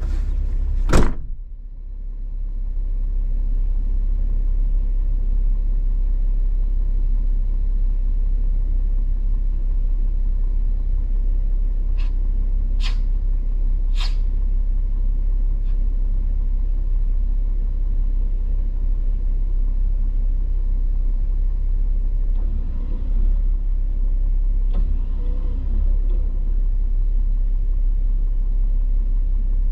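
Low, steady vehicle rumble with a loud click about a second in and three sharp clicks around the middle.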